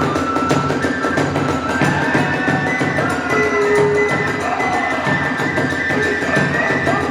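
Kagura hayashi accompaniment: a bamboo transverse flute playing long held notes with bending glides over a fast, steady beat of drums and clashing hand cymbals.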